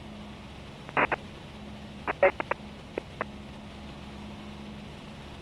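Steady in-flight cabin drone of a Cessna 172S with a low hum. A series of short sharp clicks about one, two and three seconds in stands out above the drone.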